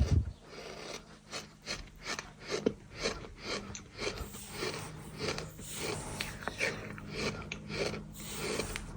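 Gritty crunching and rasping of bird-sand chunks being crushed, in a run of short strokes about two to three a second.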